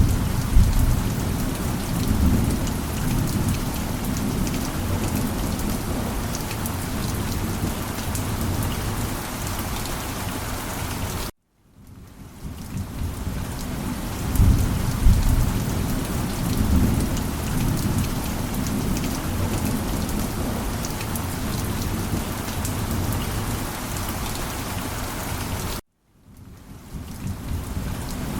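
Steady heavy rain with low rolling thunder rumbles swelling up three times, at the start, mid-way and near the end. Twice the whole sound cuts out abruptly for a moment and fades back in.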